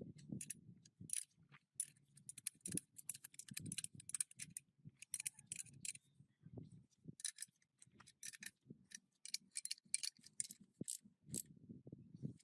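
Irregular light metallic clicks and clinks of tools and small parts being handled, some coming in quick clusters.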